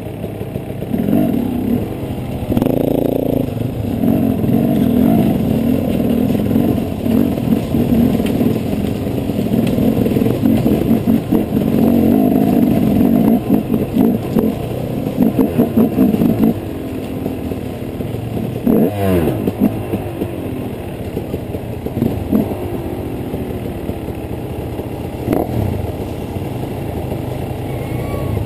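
KTM EXC enduro motorcycle engine running and revving on and off the throttle over a rocky trail, with clattering of the bike over stones. About halfway through the engine drops to a lower, steadier run, with a quick rev up and down a few seconds later.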